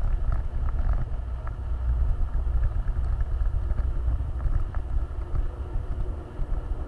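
Off-road vehicle driving, a steady low rumble with an uneven, fluctuating loudness.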